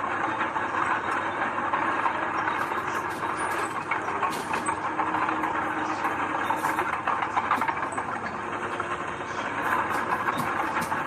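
Diesel engine of heavy earthmoving machinery running steadily, with scattered short clanks and rattles.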